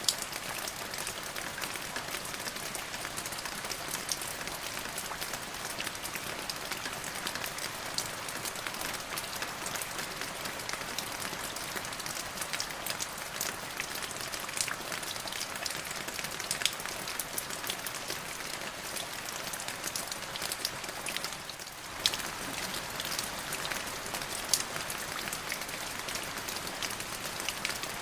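Steady rain falling, a dense even hiss with many individual drops ticking through it. The level dips briefly about three-quarters of the way through, then carries on unchanged.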